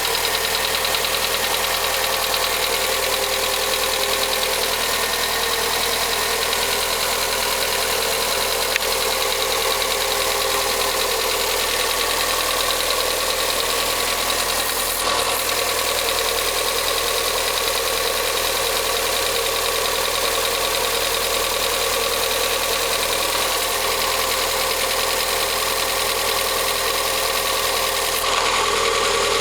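Volkswagen Gol G6 1.0 engine idling steadily from cold with a mechanical noise from the valve train. The noise is the sign of faulty hydraulic lifters, which the dealer diagnosed and replaced.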